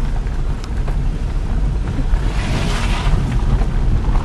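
Wind buffeting the microphone as a steady low rumble, with a louder hissing rush about two to three seconds in.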